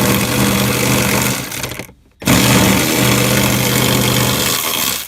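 Cordless electric ratchet running in two bursts of about two and a half seconds each, with a short pause about two seconds in, as it spins out a bolt holding the Prius's lower cowl panel.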